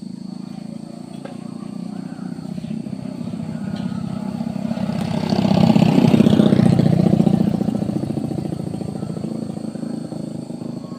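A motor vehicle passing on the road: its engine grows louder to a peak about six seconds in, then fades as it goes by.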